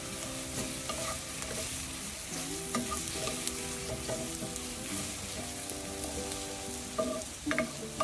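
White mushrooms sizzling as they fry in butter and olive oil in a pan while being stirred, with a few sharp clacks of the utensil against the pan about seven seconds in.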